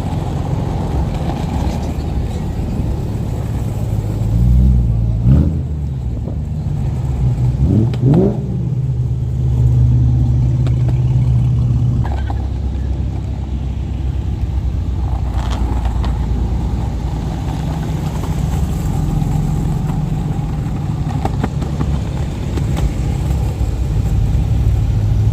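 Car engine running at low revs, with two short revs that rise and fall about five and eight seconds in.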